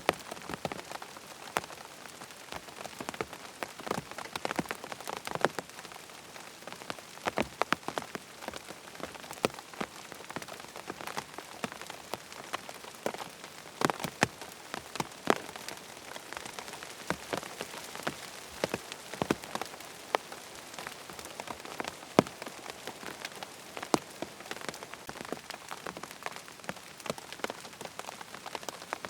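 Steady rain falling on a tent, a constant hiss with many individual drops tapping sharply and irregularly on the fabric.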